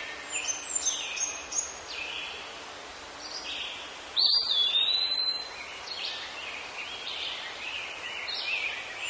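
Songbirds singing, with many short falling chirps repeating throughout and one long, steady whistled note about four seconds in.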